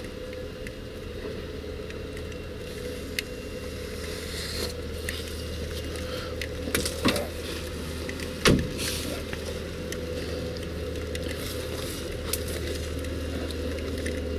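Truck engine idling steadily, with a few sharp knocks and clicks over it, the loudest about eight and a half seconds in.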